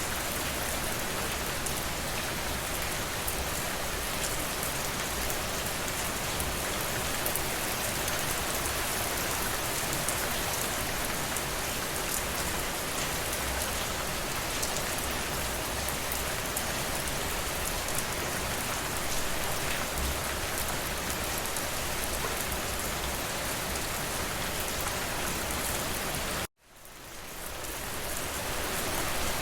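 Steady rainfall, an even hiss of rain with no thunder. About 26 seconds in it cuts out abruptly and fades back in over about two seconds.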